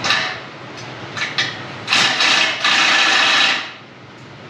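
Wet, packable snow crunching and scraping in several rasping strokes, a short one at the start and two longer ones lasting about a second each from around two seconds in.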